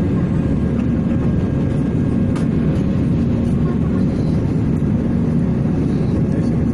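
Steady rumble of an Airbus A320's engines running, with a faint steady hum over it.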